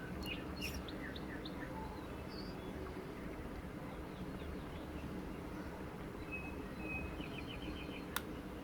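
Birds chirping with short trills a few times, over a steady low hum, with one sharp click near the end.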